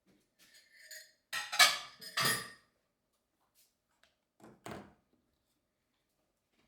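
Dishes and kitchenware clinking and clattering as they are handled and set down on a shelf: a cluster of loud clinks about one and a half to two and a half seconds in, and a shorter one about two seconds later.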